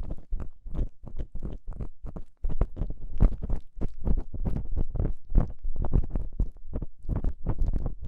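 ASMR ear-cleaning tool scraping and rubbing in a microphone's ear, in quick irregular strokes several times a second, heavy and close.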